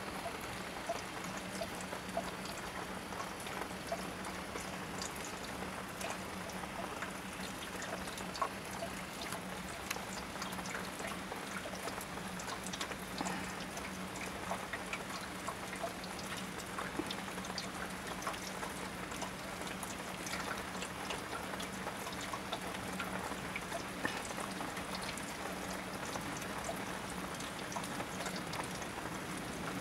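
Steady rain falling, with many scattered drop ticks, over a low steady hum.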